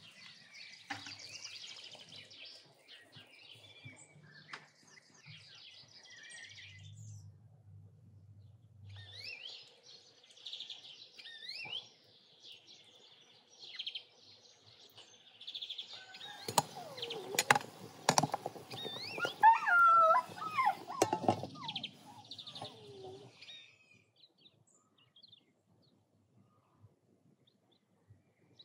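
Small birds chirping and singing, with a louder stretch in the second half that holds several sharp knocks and clatter.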